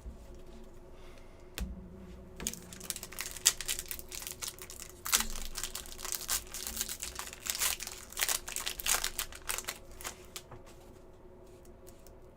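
Crinkling and tearing of a foil trading-card pack wrapper being handled and opened, mixed with quick clicks of cards being shuffled, busiest through the middle and easing off near the end.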